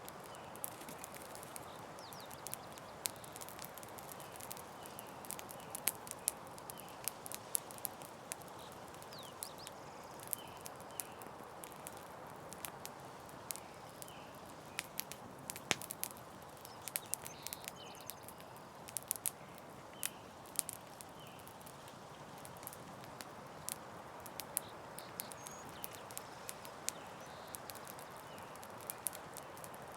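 Campfire crackling: irregular sharp pops and snaps over a steady soft hiss.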